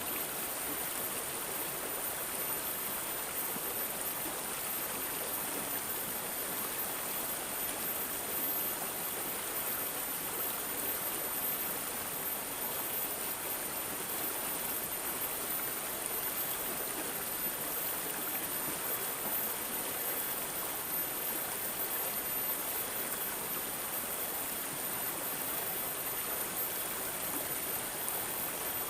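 Water gurgling and babbling steadily over rocks in a shallow stream, with a thin steady high-pitched tone above it.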